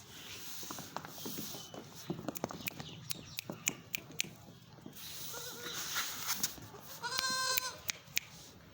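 Goat kid bleating: a faint call about five seconds in, then a louder, longer one about seven seconds in, over scattered small knocks and rustling.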